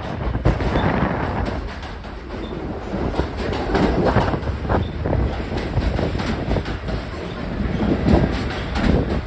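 R46 subway train running fast into an elevated station: a steady rumble with wheels clacking over rail joints throughout.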